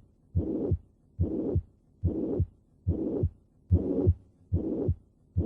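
Heart heard through a stethoscope with the pansystolic (holosystolic) murmur of mitral regurgitation: a steady rhythm of about six beats, each a low first heart sound followed by a whooshing murmur that fills systole and runs right up to the second heart sound.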